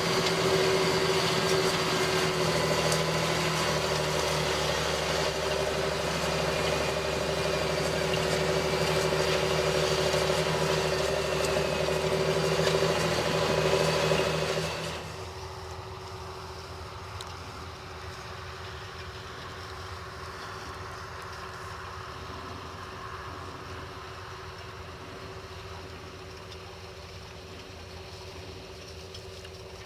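John Deere 8530's six-cylinder diesel engine running under load while pulling a cultivator, with a steady whine above the engine note. About halfway through, the sound drops suddenly to a much quieter steady drone.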